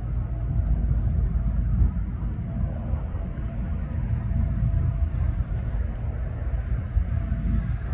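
Steady low rumble of a diesel freight train, with a faint engine hum.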